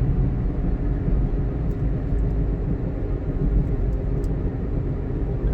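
2006 Ford Mustang GT's 4.6-litre V8 and road noise heard from inside the cabin while driving. A strong steady engine note fades near the start, leaving a steady low rumble.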